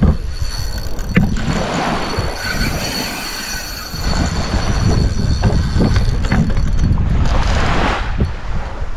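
Wind buffeting the microphone as a rough low rumble, heavier from about four seconds in, with a sharp click about a second in.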